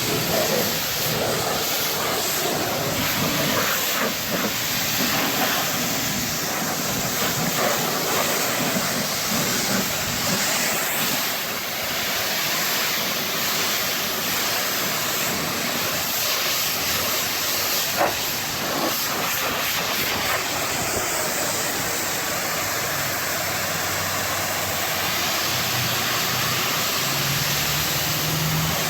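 Pressure washer wand spraying a steady high-pressure jet of water, rinsing foam off a truck.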